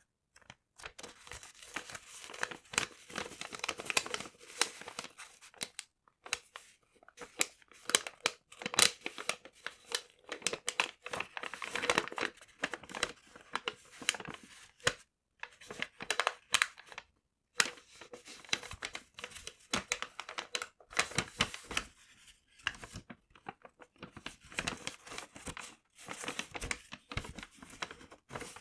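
Paper being crinkled and torn close to the microphone: dense runs of crackles and rips, broken by a few short pauses.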